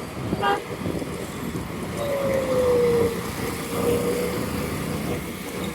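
Road and wind noise from riding an electric scooter in traffic, with a brief high tone about half a second in. From about two seconds in, a whine drops slightly in pitch and then holds steady.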